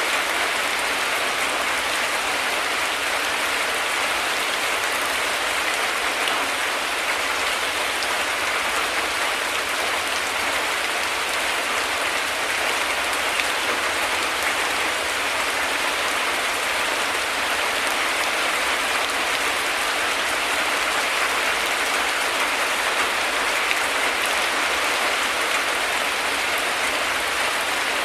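Heavy rain falling steadily: a dense, even hiss of drops with no thunder rumble.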